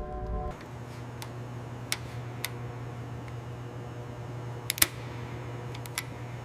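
Steady low hum with a few sharp, light clicks scattered through it, the loudest a double click nearly five seconds in. A held tone cuts off about half a second in.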